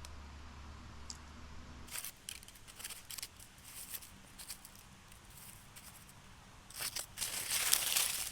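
Dry pine needles and twigs rustling and crunching as they are handled, in irregular crackles, with a louder, denser stretch of crunching near the end.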